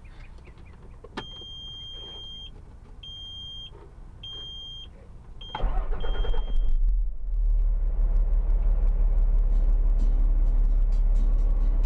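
A high electronic warning tone from the truck's dashboard sounds in several on-off pulses, then the truck's engine cranks and starts about five and a half seconds in and settles into a steady low-pitched idle.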